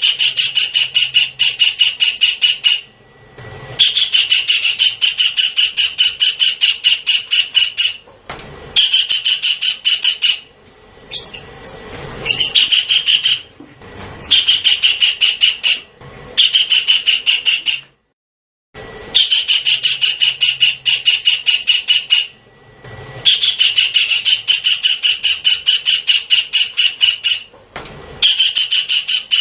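Javan kingfisher giving its loud, harsh rattling call, about four notes a second in bouts of two to four seconds with short pauses between; a recorded lure call used to attract the bird.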